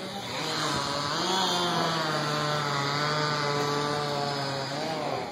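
An engine running at a steady, fairly high pitch, dipping briefly about a second in and again near the end.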